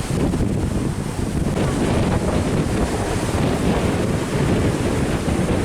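Strong wind buffeting the microphone over the noise of high waves surging against the shore.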